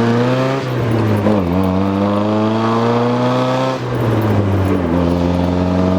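1977 Triumph Spitfire 1500's four-cylinder engine pulling under acceleration, its pitch climbing, then dropping back twice as it shifts up a gear, about a second and a half in and again near the end.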